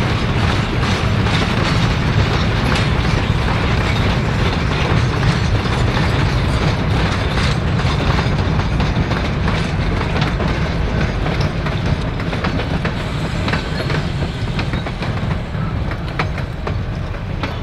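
East Broad Top narrow-gauge hopper cars and wooden passenger coaches rolling past on jointed track: a steady rumble with the clickety-clack of wheels over rail joints, easing off slightly near the end as the train moves away.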